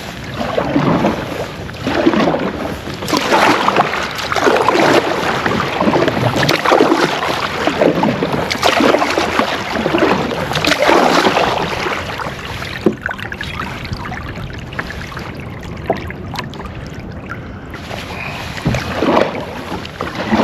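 Kayak being paddled: paddle strokes swishing and splashing in the water in an even rhythm, about one every second or so, easing off for a few seconds after the middle. Wind rumbles on the microphone underneath.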